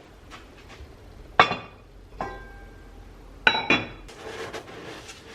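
Tableware clinking: four sharp clinks of dishes being handled, the second and third ringing briefly after the strike.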